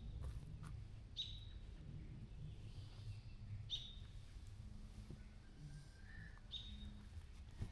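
A bird calling: four short, high chirps spaced one to three seconds apart over faint background noise.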